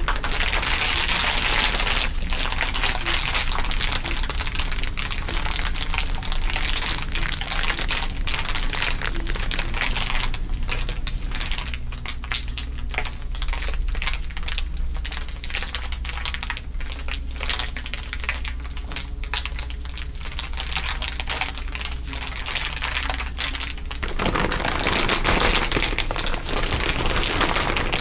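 Several layers of crinkling overlaid, a dense run of fine crackles over a steady low hum. The crackling is thickest at the start, thins out after about two seconds, and grows dense again near the end.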